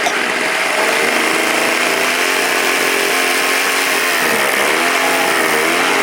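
Small model-aircraft engine on the RC tow plane running steadily while it is being tuned, its speed dipping and picking back up partway through.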